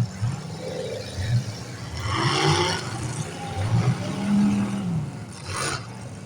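Demolition derby car engines running and revving, the pitch rising and falling. There is a louder swell of noise about two seconds in and a short, sharp burst of noise near the end.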